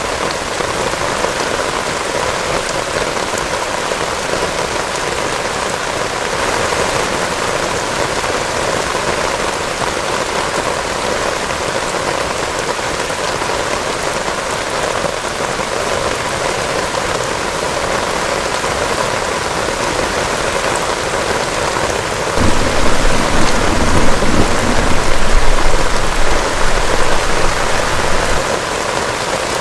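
Heavy rain falling steadily. About three-quarters of the way through, a low rumble of thunder comes in suddenly and lasts several seconds, the loudest part.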